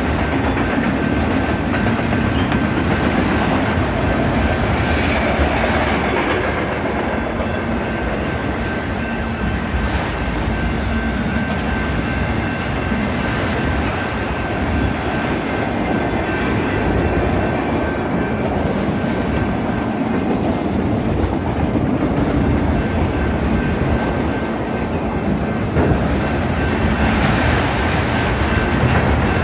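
Freight train cars rolling steadily past on the rails, with a faint steady high whine running through the noise of the wheels.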